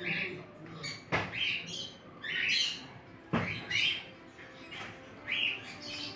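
Birds calling in short, squawky high notes about once a second, with two sharp knocks, one about a second in and one about three and a half seconds in.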